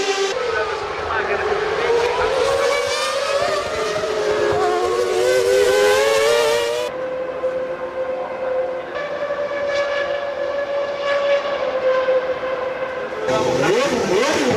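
Formula One racing car engines at high revs, the pitch climbing and dropping as the cars shift gear. From about halfway the note holds steady, and near the end cars sweep past with the pitch rising then falling.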